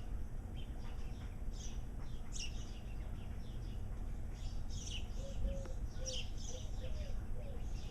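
Outdoor ambience of several birds chirping and calling, with a run of short, low repeated notes starting about five seconds in, over a steady low rumble of wind on the microphone.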